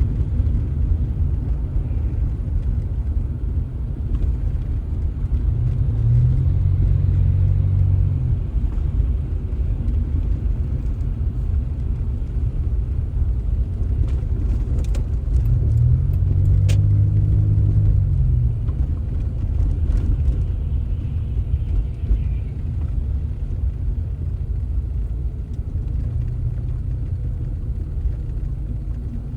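Car driving, with a steady low engine and road rumble. The engine note rises and falls three times, about ten seconds apart.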